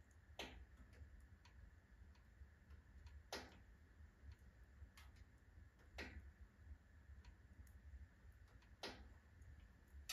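Wood fire burning in a wood-burning stove, heard faintly: irregular small crackles, with a louder sharp pop about every two and a half to three seconds, four in all, over a low steady rumble.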